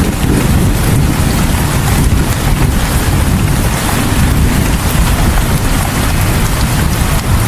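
Steady heavy rain, an even hiss with a strong low rumble underneath.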